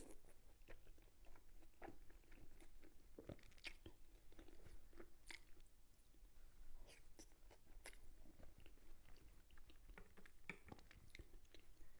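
Faint chewing of a mouthful of lasagna, with scattered short wet clicks and smacks of the mouth.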